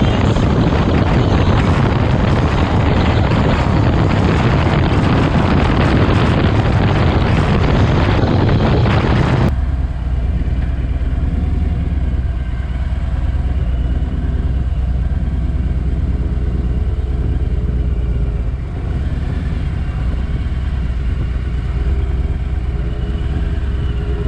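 Harley-Davidson Road Glide Special's V-twin engine running on the move, buried under heavy wind noise on the camera microphone. About ten seconds in, the wind noise cuts off suddenly, leaving the engine's steady low hum.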